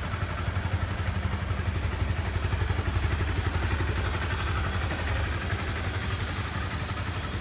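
Motorcycle engine idling steadily, with a fast, even low pulse.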